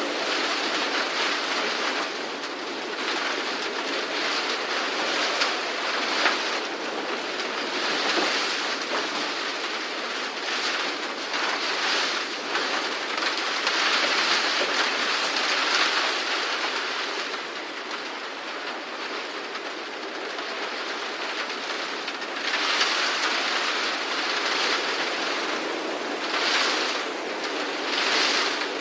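Typhoon wind and heavy rain: a steady rushing noise that swells in gusts several times.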